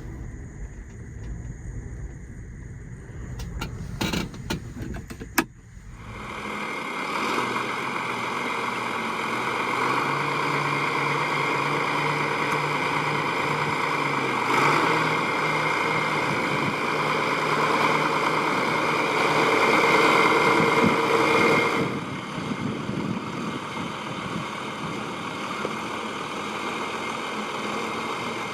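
A John Deere 4430's diesel engine: a few clicks, then from about six seconds in it runs steadily. Its pitch rises partway through, and at about twenty-two seconds it drops back and gets quieter.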